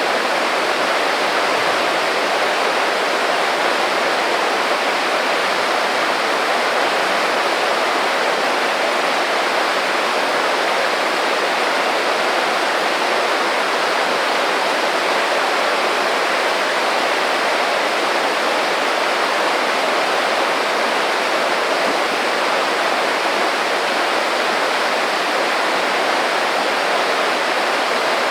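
A small creek running, a steady rush of babbling water.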